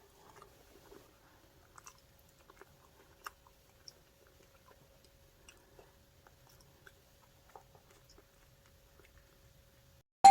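Faint chewing and biting of a crispy chicken burger, heard as scattered soft crunches and mouth clicks.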